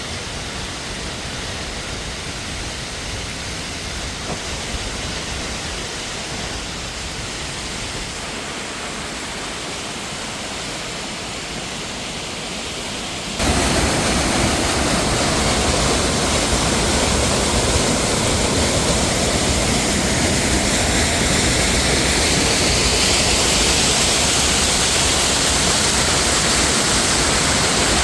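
Steady rush of mountain water, an even hiss with no other sounds in it. About halfway through it jumps suddenly to a louder, fuller rush that holds to the end.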